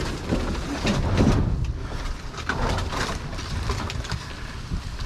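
Junk being handled and shifted around: scattered knocks and rustling over a low steady rumble.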